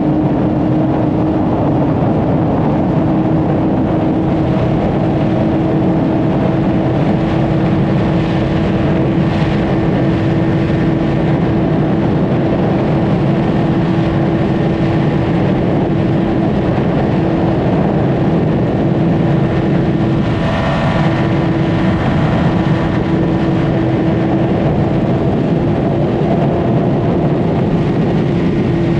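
A Honda CBR600RR's inline-four engine and exhaust running at steady cruising revs at highway speed, with wind noise. The engine note breaks briefly about twenty seconds in, then settles back.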